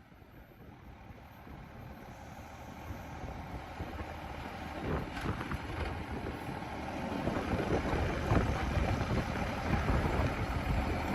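Wind buffeting the microphone as an uneven low rumble that grows steadily louder.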